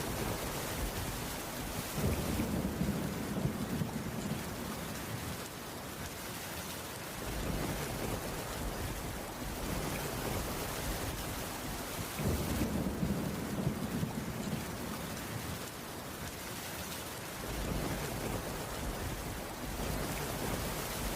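Steady heavy rain, with low thunder rumbling in twice, about two seconds in and again about twelve seconds in, each rumble rolling for several seconds.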